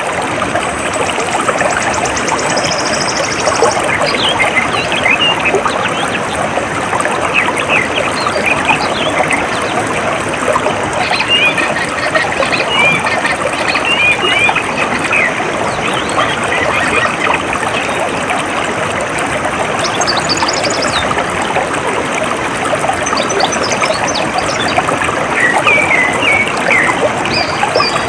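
Shallow stream of water trickling and babbling steadily, with small birds chirping in short phrases through much of it and a high rapid trill in the first few seconds.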